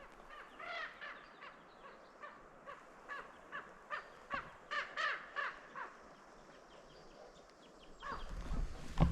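A bird calling: a series of short, repeated calls, about three a second, in runs over the first six seconds.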